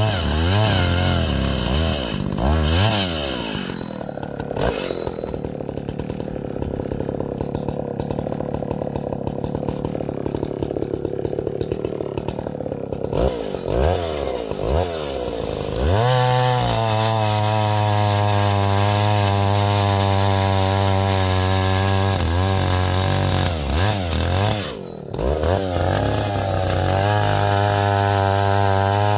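Vintage Husqvarna L65 two-stroke chainsaw at full throttle, pulling down to a lower, rougher pitch for several seconds as it cuts through an ash log. It then revs back up and runs high with a few brief throttle drops.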